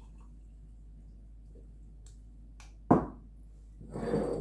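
Quiet room, then one sharp knock about three seconds in as a hard kitchen item is set down on the counter, followed near the end by a short clatter of kitchenware being handled.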